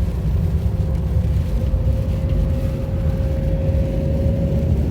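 Car cabin noise while driving: a steady low engine and road rumble, with a faint steady whine above it that fades out near the end.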